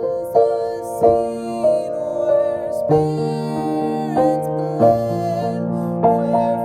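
Piano playing a slow hymn tune in chords, each chord struck and held before the next.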